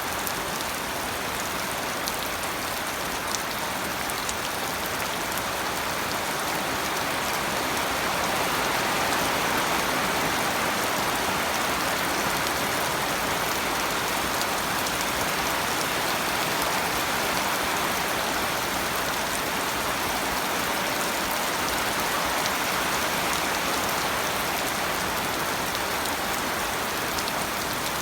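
Steady rain falling, an even hiss with a few separate drop ticks, growing slightly heavier about eight seconds in.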